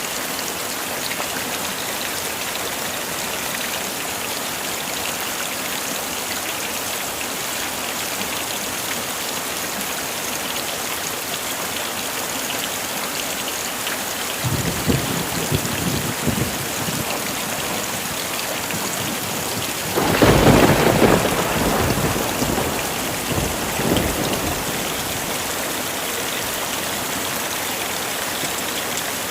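Steady heavy rain with two rolls of thunder: a fainter rumble about halfway through, then a louder thunderclap some six seconds later that rumbles away over a few seconds.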